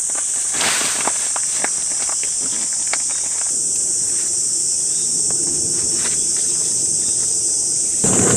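Steady high-pitched insect chorus, with scattered rustles and small clicks in the first few seconds and a low rushing noise that swells near the end.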